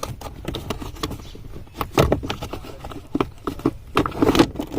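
Irregular metallic knocks and clatter from hands and tools working on a car's steering rack and column mounting, strongest about two seconds in and near the end.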